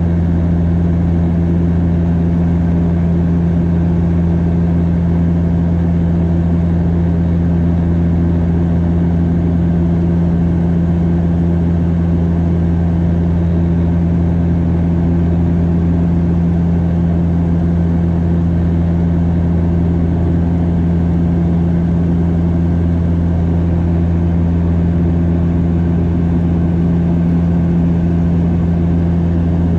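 Cabin drone of a Bombardier DHC8-Q400 turboprop in flight: a steady, loud propeller hum with its overtones over engine and airflow noise.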